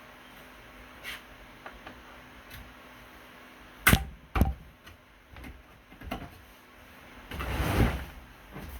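Handling noises: a few faint clicks, then two sharp knocks about half a second apart, a lighter knock, and a brief rustling scrape near the end.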